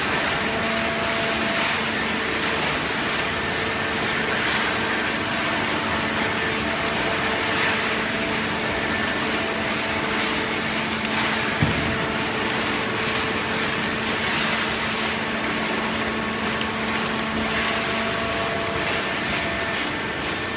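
Hydraulic baling press running: a steady machine hum from its motor and pump over a constant clatter of machinery, with one sharp knock about twelve seconds in.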